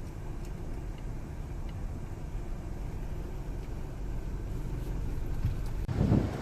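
Steady low vehicle rumble, with a brief loud low thump near the end.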